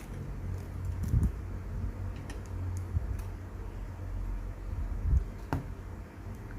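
Small clicks and soft knocks of parts and tools being handled on a workbench, over a steady low hum. The sharpest click comes about five and a half seconds in.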